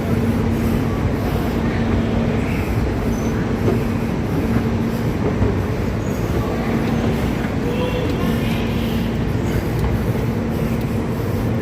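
Los Angeles subway train running: a steady rumble with a low, even motor hum that drops out briefly a couple of times.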